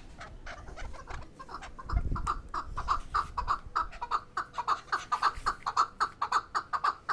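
Chukar partridge calling: a fast, even run of short clucking notes, several a second. A brief low thud comes about two seconds in.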